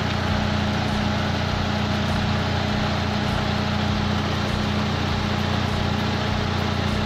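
Proton Waja's engine idling steadily at about 900 rpm with the air conditioning on, not yet fully warm. The idle sits a little high, which the mechanic puts down to a throttle position sensor reading set too high and the engine running cold without a thermostat.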